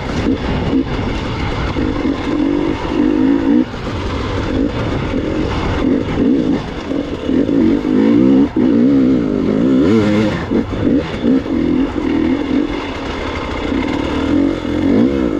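Gas Gas EX 300 two-stroke enduro motorcycle engine under way, its pitch rising and falling over and over as the throttle is opened and closed.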